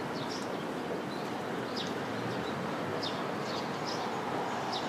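Small birds chirping in short, high notes, about eight times, over a steady background rumble from a tram street where a streetcar is moving off.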